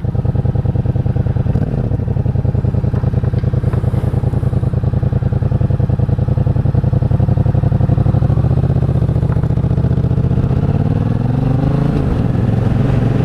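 Motorcycle engine running steadily under way, with a fast pulsing exhaust note; near the end its pitch rises as the bike accelerates.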